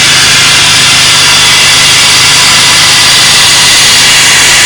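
Supercharged GM 3800 Series II V6 idling with a loud, steady hiss of escaping air over the engine's even running. The owner traces the leak to just below the ignition.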